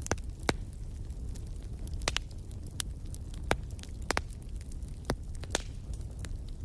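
Wood fire burning in a fireplace: a steady low rumble of flames with irregular sharp crackles and pops from the burning logs, about ten in all.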